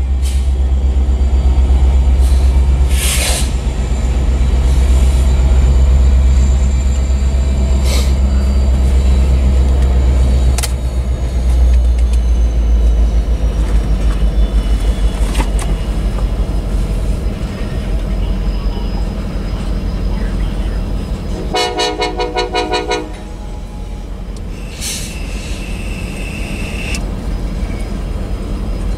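Diesel locomotives of a freight train rumble past at a grade crossing, with sharp clanks from the wheels and couplers, and the rumble eases as the freight cars roll by. About 22 seconds in a horn sounds once for about a second and a half, and a high wheel squeal follows.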